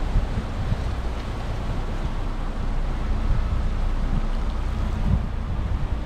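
Steady wind buffeting the microphone, a low rumble with water splashing faintly beneath it.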